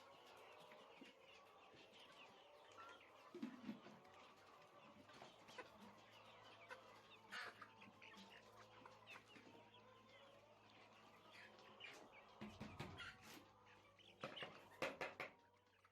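Faint clucking and chirping of chickens, in scattered calls with a few louder ones near the end, over a faint steady hum.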